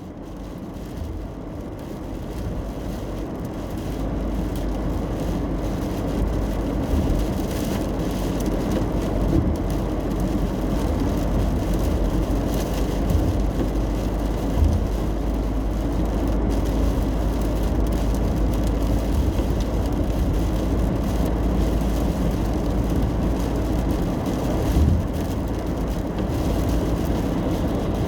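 Steady cabin noise of a car driving on a wet road in the rain: a low road and tyre rumble under an even hiss of rain and spray. It fades in over the first few seconds, then holds steady with a few small bumps.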